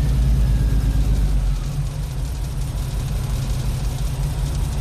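Holden VK Commodore's 202 inline-six engine idling steadily, its revs easing down a little about a second and a half in. It has just been started after more than eight years sitting and is still burning off oil smoke.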